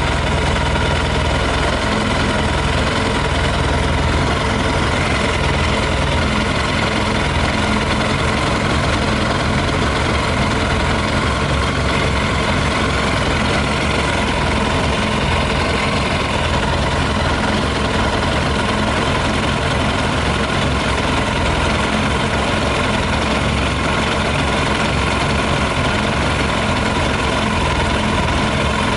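Yamaha YZF 600R's carburetted inline-four engine idling steadily on 40% whisky poured into the tank; the owner thinks a little petrol may still be left in it.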